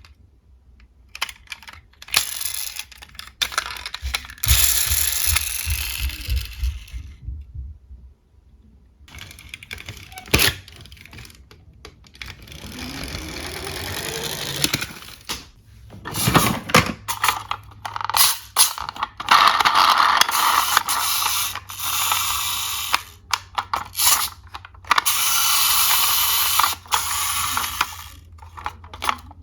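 Small diecast toy cars being handled and rolled: repeated clicks and clacks of metal and plastic knocking together, with several stretches of rolling rumble lasting a few seconds each.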